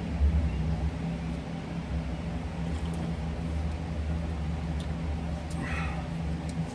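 A steady low mechanical hum, like a running engine or motor, with a few faint light clicks near the end.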